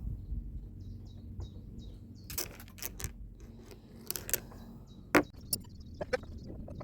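A small bird chirping over and over, short falling chirps about three a second. Sharp metallic clinks of hand tools come in between, in small clusters, the loudest about five seconds in.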